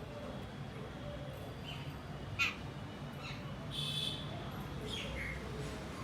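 Birds giving a few short calls: a sharp chirp about two and a half seconds in, a harsher call near four seconds and a falling chirp near five seconds, over a steady low background hum.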